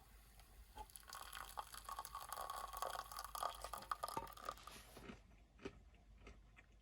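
Close-up eating sounds: a few seconds of crackly, crunchy noise that stops suddenly, followed by soft chewing clicks.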